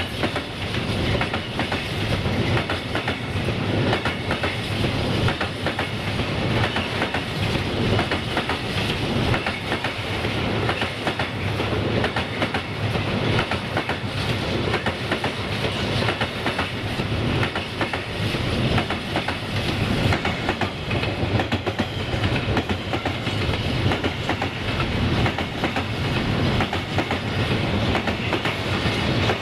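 Freight train's wagons rolling along, wheels clicking over rail joints in a steady clickety-clack over a continuous rumble.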